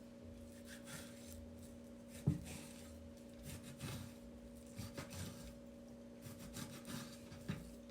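Knife cutting raw beef on a cutting board: faint scraping and soft knocks, with one firmer knock about two seconds in, over a steady low hum.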